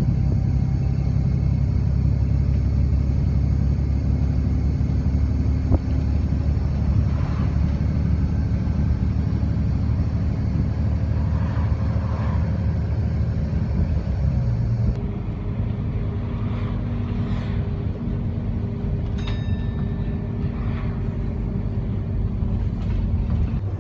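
Steady low rumble of a running vehicle engine amid road traffic. It drops a little in level about 15 s in, and a short high tone falls and then holds about 19 s in.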